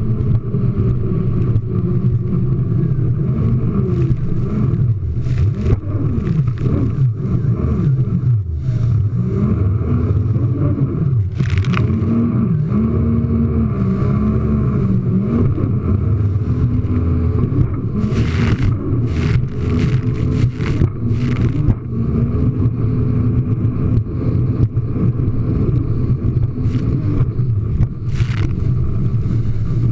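Jet ski engine running under a changing throttle, its pitch rising and falling, with a few sharp hits of water and spray as it crosses waves, about a dozen seconds in and several more around two-thirds of the way through.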